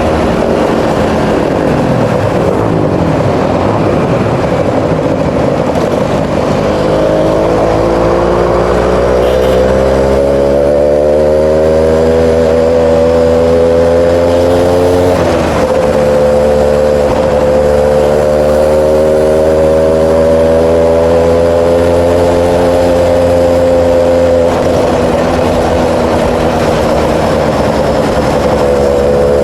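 Suzuki Tornado motorcycle's engine running under way. Its pitch climbs slowly, drops sharply about halfway through, holds steady, then falls and climbs again near the end.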